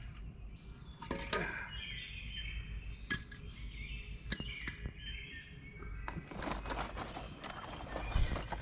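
Campground ambience of a steady high insect drone and birds singing in short chirping phrases, with a few sharp knocks and a spell of rustling from firewood being handled to build a campfire.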